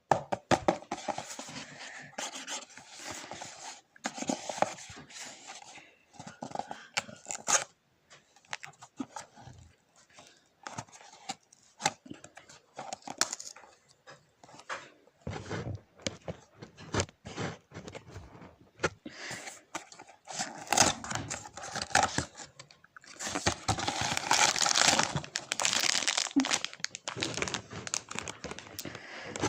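Packaging being torn open and crinkled by hand, a stream of irregular rustles and crackles that grows denser and louder in the last few seconds.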